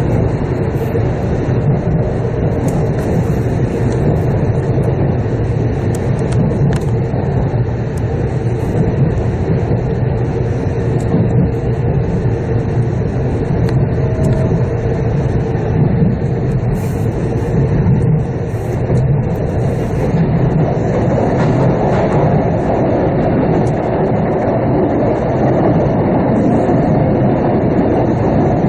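Shinkansen running at speed, heard from inside the carriage: a steady, even rumble of wheels and rail with a faint hum.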